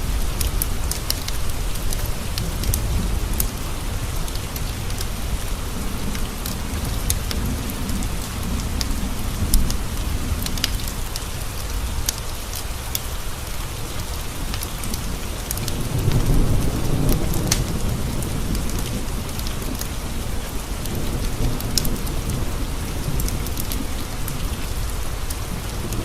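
Steady rain pattering, with scattered sharp ticks of drops throughout. A low roll of thunder swells up about two-thirds of the way through.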